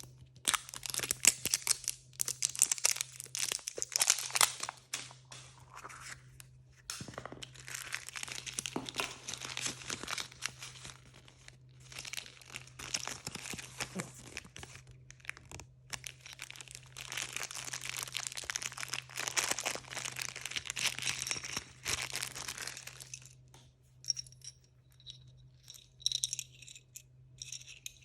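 Blind-bag packaging crinkling and tearing as it is opened by hand, in several long spells of crackling. Near the end it gives way to a few light clicks and taps.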